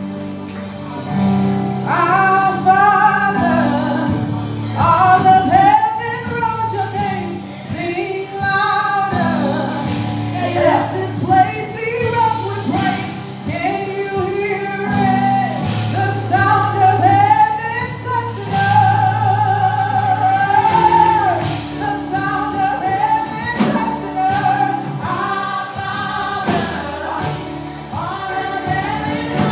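Live gospel worship music: a lead singer with vibrato over sustained keyboard or bass chords, with choir voices.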